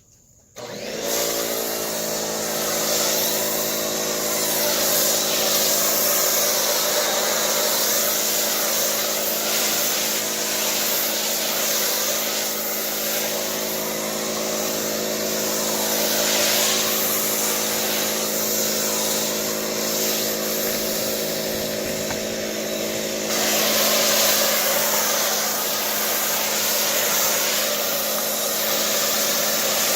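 Electric pressure washer (1900 psi) starting up about a second in and running steadily, with the hiss of water and soap spraying through a foam cannon. It shuts off right at the end.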